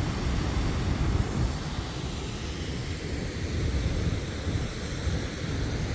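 Low Force waterfall on the River Tees rushing in full, fast flow: a steady roar of falling water, heaviest in the low end.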